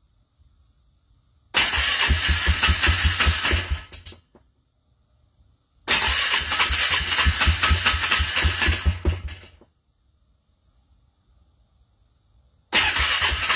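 Cold vehicle engine being cranked by its starter motor in three separate attempts, each a few seconds of rhythmic chugging that stops without the engine catching: a hard cold start.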